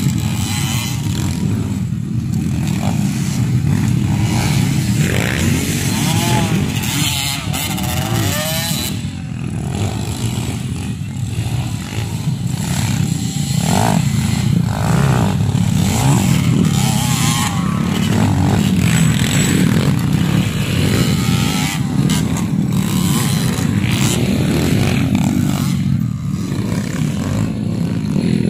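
Motocross dirt bike engines running and revving, the pitch repeatedly rising and falling as the bikes accelerate and back off.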